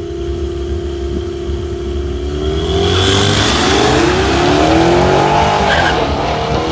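Drag-racing truck engine held at steady revs, then accelerating hard, its pitch climbing and dropping back several times through gear changes as it grows louder toward the middle.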